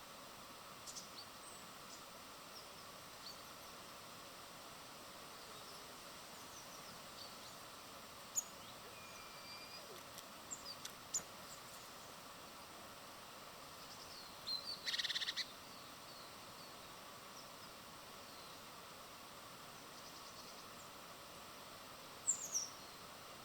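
Small birds calling with scattered short, high chirps over a steady outdoor hiss. There is one louder, rapid buzzy trill about two-thirds of the way through and a quick falling chirp near the end.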